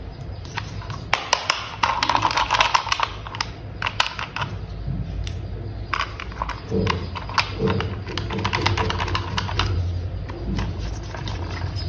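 Plastic toy parts clicking and tapping as they are handled and snapped together, a quick irregular run of small sharp clicks that is busiest a couple of seconds in.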